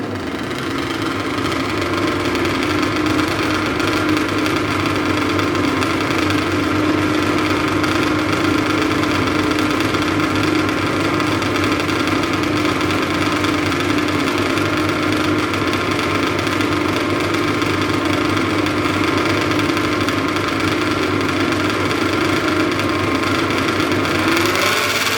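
Modified garden tractor engine running steadily at a constant speed, then revving up near the end.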